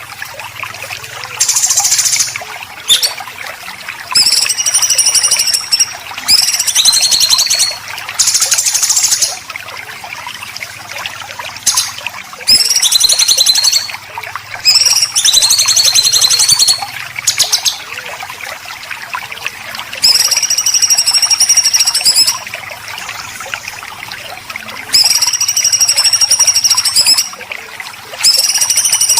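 Songbird giving harsh, buzzy 'besetan' rattle calls in repeated bursts of one to two seconds, some bending in pitch, with a steady trickle of water behind.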